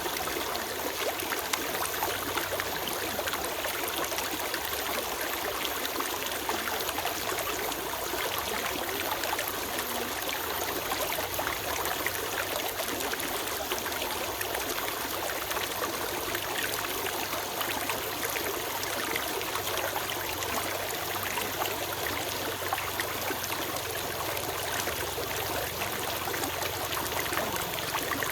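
A small stream flowing and trickling over stones, a steady rush of water.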